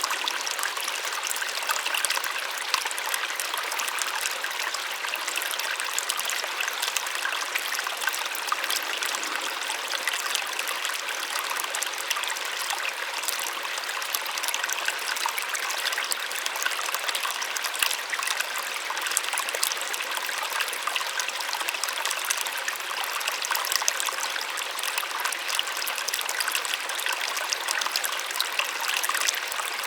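Small waterfall running steadily: an even, hissing rush of falling water made of many fine splashes, with little low rumble.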